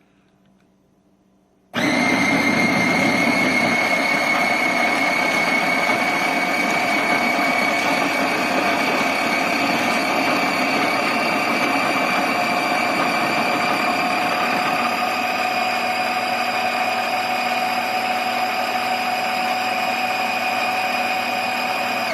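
Built-in coffee bean grinder of a GEVI grind-and-brew coffee maker starting about two seconds in and grinding with a steady, loud motor whine that rises slightly in pitch, then shutting off by itself near the end once the beans are ground and brewing begins.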